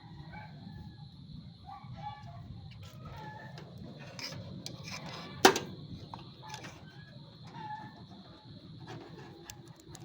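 Short animal calls coming a few at a time, with one sharp click about halfway through, the loudest sound, over a faint steady high whine.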